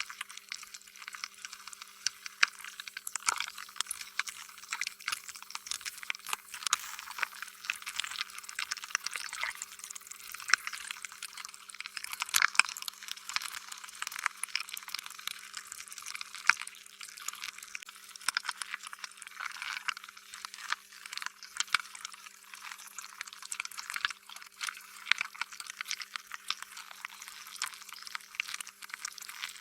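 Slime being squished and worked by hand: a continuous run of wet, sticky crackles and small pops, irregular and without pause, with a faint steady hum underneath.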